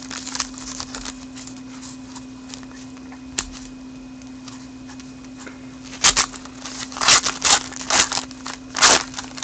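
Trading cards being handled and slid against one another, with a single tick early on and several brisk rustles about six to nine seconds in, over a steady low hum.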